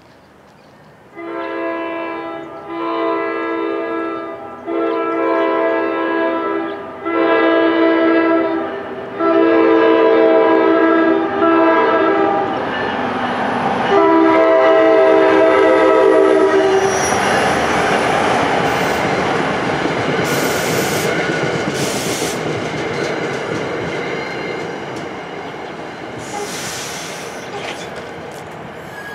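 NJ Transit commuter train's horn sounding a run of long blasts with short gaps for the grade crossing, the last blast the loudest. Then the train passes close by, a steady rush of wheels on rail with clatter over the crossing, slowly fading toward the end.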